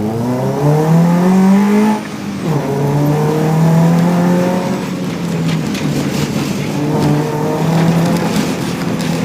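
A 2005 Impreza 2.5 RS's naturally aspirated flat-four running hard, heard inside the cabin. It climbs in pitch, drops sharply about two seconds in, then holds high revs with further dips and rises. A spatter of ticks and rattles comes in the second half.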